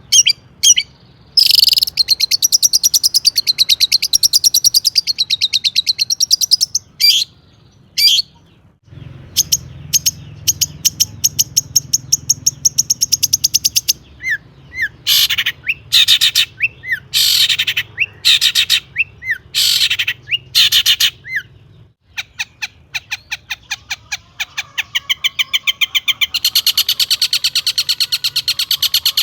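Long-tailed shrike singing a loud, varied song of rapid repeated chirps and long fast trills, broken by short pauses, in the chattering style that keepers prize for its mimicry of other birds.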